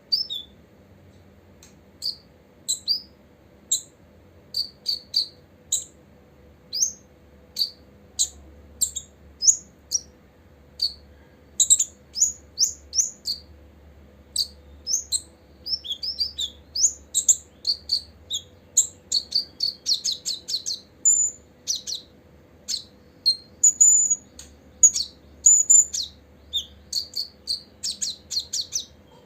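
Copper-throated sunbird calling: a string of short, high-pitched chirps and quick sweeping notes at an irregular pace. The notes come faster in the second half, with rapid chattering runs.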